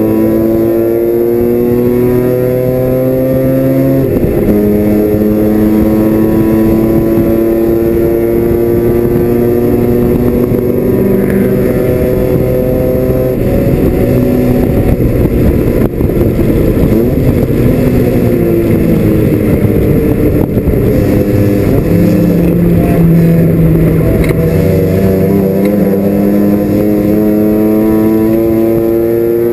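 Mazda RX-7 FC race car's 13B rotary engine at high revs, heard from inside the cabin. The pitch climbs steadily, drops suddenly about four seconds in and climbs again; in the middle the revs fall and turn ragged, then climb once more near the end.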